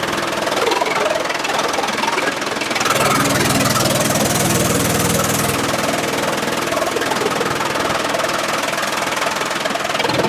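Engine-driven sawmill machinery running steadily, with a hissing layer added from about three seconds in until past the halfway mark.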